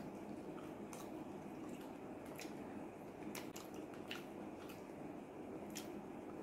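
Close-miked chewing of thick-cut potato fries, with scattered wet mouth clicks and smacks over a steady low hum.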